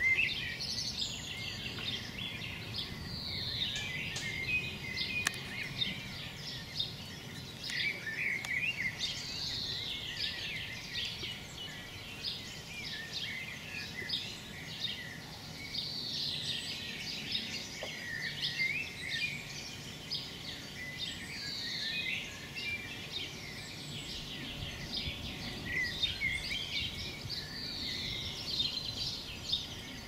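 Several songbirds singing at once, with many short chirps throughout; one bird repeats a short song phrase with a falling note about every five or six seconds.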